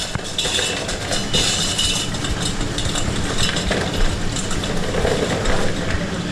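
A steady mechanical running hum with a low rumble and intermittent bursts of hiss.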